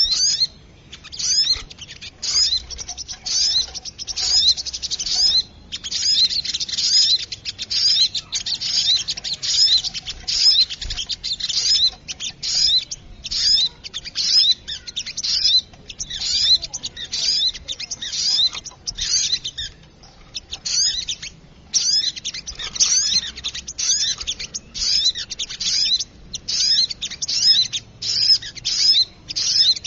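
Little spiderhunters (sogok ontong) calling excitedly: rapid, high, sharp chirps in quick bursts, one after another with short gaps, used as a lure call to attract small birds.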